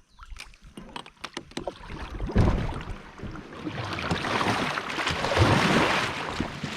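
A kayak hull hitting a log in river current: light knocks, then a heavy thump about two seconds in, followed by a swelling rush of water and scraping against the hull for a few seconds. The boat is nearly hung up on the log and close to tipping.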